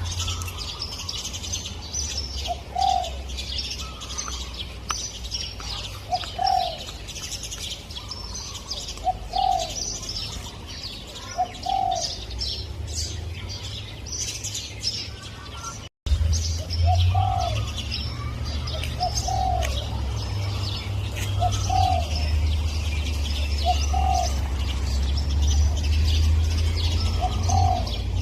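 Spotted dove cooing, short low notes repeated every few seconds, over a dense chorus of high chirping from small birds and a steady low hum. About halfway through, the sound drops out for a moment.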